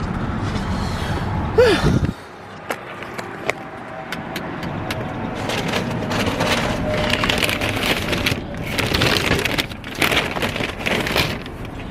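Crinkling and rustling of paper fast-food packaging being handled, with many small crackles and clicks. It is heaviest in the second half. A low car-cabin rumble cuts off about two seconds in.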